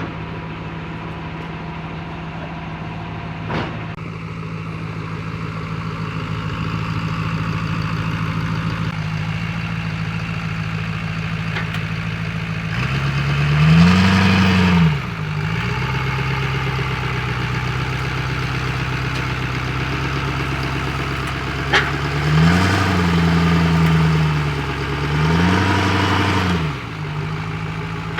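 A truck engine idling steadily, revved up and back down once about halfway through and twice more near the end.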